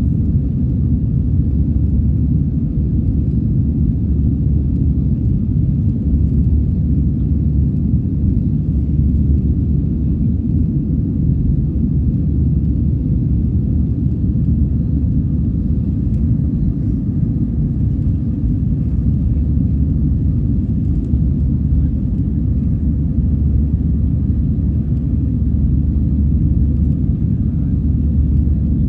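Airbus A320 engine and airflow noise heard inside the cabin during the climb: a steady low rumble with a faint, even hum above it.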